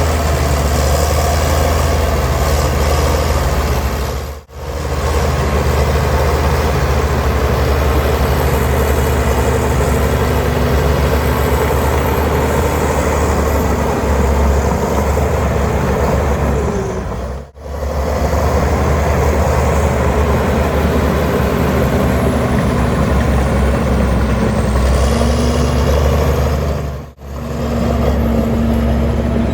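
Heavy diesel earthmoving machinery running steadily under load, a continuous deep engine sound. It cuts out briefly three times, about four seconds in, past the middle, and near the end.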